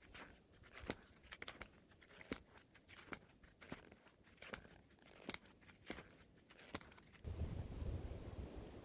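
Footsteps crunching in snow at a steady walking pace, a bit more than one step a second. About seven seconds in, a low rumble of wind on the microphone takes over.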